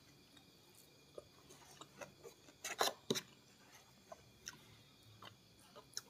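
Close-miked mouth sounds of a person chewing rice and fish: scattered wet clicks, with a short cluster of sharp crackling clicks about three seconds in.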